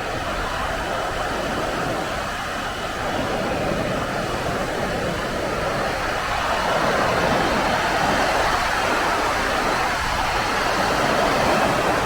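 Waterfall on the Stamp River, a steady rush of falling water that grows a little louder about halfway through.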